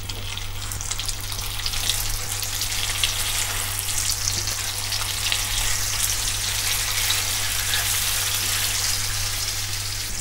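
Chicken seekh kebabs sizzling and crackling in hot oil in a grill pan, the sizzle building over the first couple of seconds as more kebabs are laid in, then holding steady.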